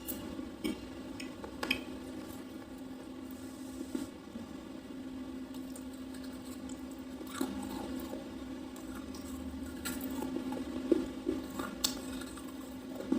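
A person chewing a red slate pencil, with a few sharp crunches scattered through the chewing. A steady low hum runs underneath.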